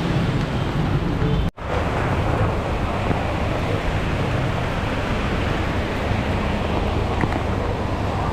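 Steady rush of heavy rain with gusting wind, the audio cutting out for a split second about one and a half seconds in.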